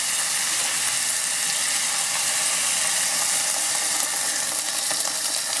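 Onions, tomatoes and spices sizzling with a steady crackling hiss in butter in a hot non-stick wok. About four seconds in, a little water is poured into the pan to keep the masala from burning.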